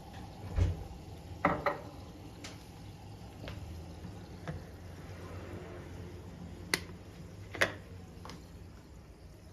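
Handling sounds: about five sharp clicks and knocks, two close together in the first two seconds and two more later, over a low steady hum.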